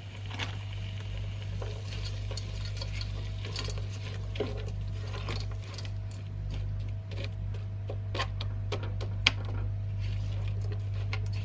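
A spoon stirring frozen vegetables in a cooking pot, with irregular scrapes and clinks against the pan, over a steady low hum.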